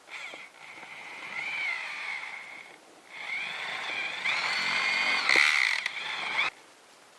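Electric power-tool motor whining in two runs, its pitch rising and falling as the speed changes, the second run louder and stopping abruptly.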